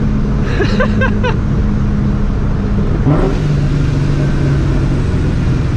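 Straight-piped, Vortech-supercharged 2004 Mustang GT's 4.6-litre two-valve V8 running loud under light, feathered throttle. Its note holds steady, then dips and settles at a new pitch about three seconds in.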